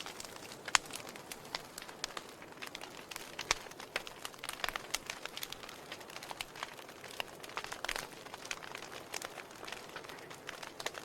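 Wood fire in a fireplace crackling: irregular sharp snaps and pops, some louder than others, over a soft steady hiss of the flames.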